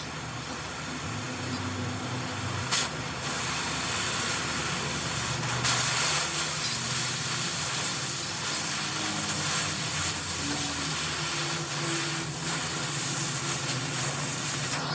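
Steady hissing over a low mechanical hum, with a single knock about three seconds in and the hiss growing stronger a little past halfway.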